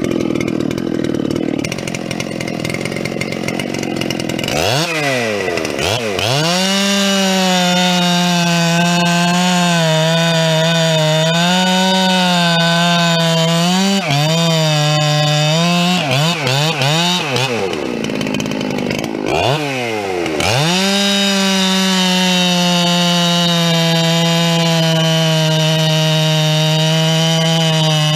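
Two-stroke chainsaw running at full throttle while bucking firewood. A few seconds in the revs climb sharply and then hold high with small dips as the chain bites; about two-thirds of the way through the revs fall away briefly before climbing back up and holding steady.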